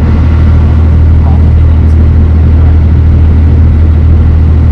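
Dutch barge's inboard engine running steadily under way, a loud, even low drone.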